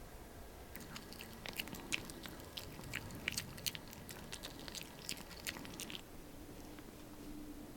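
Crunchy chewing: a quick run of crisp crunches for about five seconds, then it stops.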